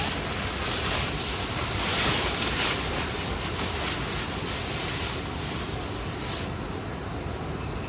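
Heavy rain falling on a tent's fabric, heard from inside as a dense, steady hiss. About six and a half seconds in, the hiss suddenly thins and drops a little, and a faint steady high tone comes in.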